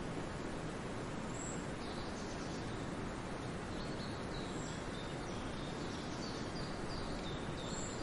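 Steady outdoor background hiss with small birds chirping: short high notes that repeat from about two seconds in.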